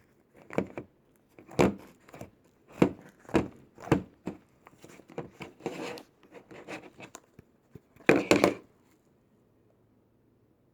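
Slime being squished and pressed by hand: a run of separate squishes, each lasting about half a second, with a louder cluster about eight seconds in.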